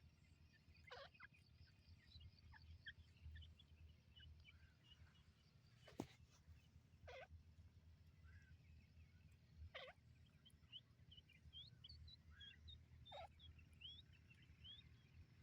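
Faint birds calling: many short, high chirps throughout, with a few louder short harsh calls about a second in, around seven, ten and thirteen seconds in, over a steady low hum. A single sharp click comes about six seconds in.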